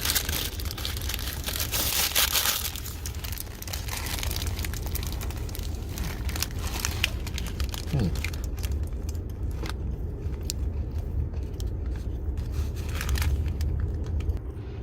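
Paper sandwich wrapper crinkling and rustling as it is handled, densest in the first two or three seconds, then in scattered crackles, over a steady low hum.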